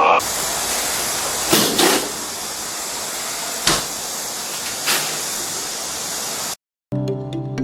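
A steady hiss of noise with four short swishes in it, cutting out abruptly near the end, after which music begins.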